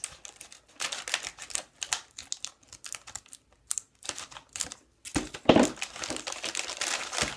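Plastic snack wrapper crinkling and crackling as it is handled and opened, in quick irregular crackles, with a louder stretch of tearing and rustling about five seconds in.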